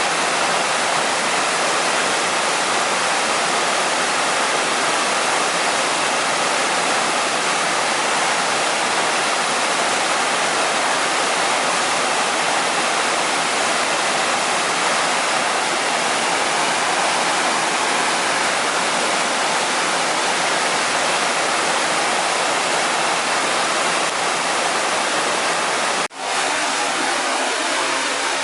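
Steady rush of a mountain stream or waterfall, an even noise of flowing water. It cuts out suddenly for a moment near the end and comes back with a slightly different texture.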